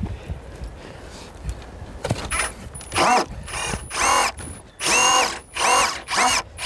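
Cordless drill-driver run in a series of short bursts from about two seconds in, its motor whine climbing at each trigger pull and then holding, as screws are worked out of wood.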